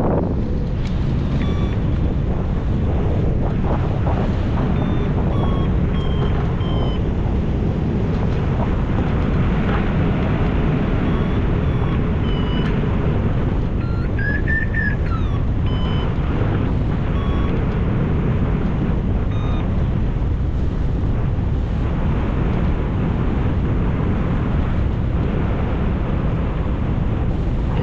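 Steady wind rushing over the microphone of a hang glider in flight, with short electronic beeps from a flight variometer now and then, their pitch stepping up and down.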